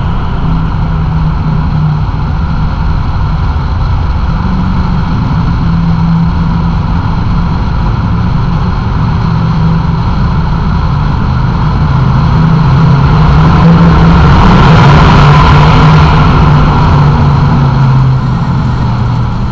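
2014 Hyundai Equus's 5.0-litre Tau V8 and road noise as the car cruises through a road tunnel, with a steady low engine hum. The sound swells with a rushing hiss about two-thirds of the way through, then eases back.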